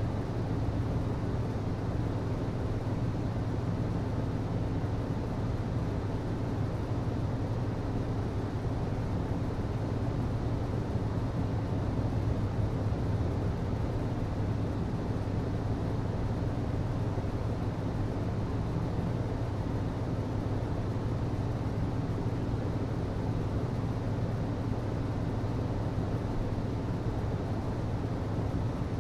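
HVAC system running steadily: a constant low hum with a rushing, air-like noise over it, unchanging throughout.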